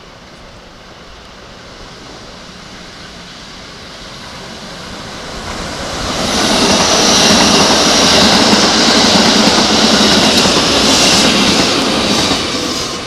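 Keikyu 1500 series six-car electric train passing close by. Its rolling noise builds from about four seconds in and is loud from about six to twelve seconds, with a high steady tone above the rumble, then starts to fade.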